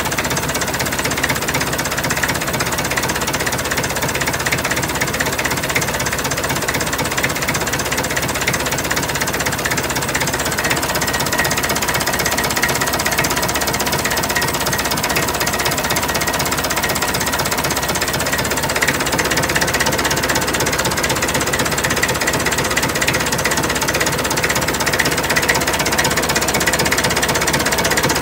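Massey Ferguson 65 tractor's four-cylinder engine running steadily, heard close up as a fast, even clatter. It runs smoothly, which the owner takes as a sign of a healthy engine.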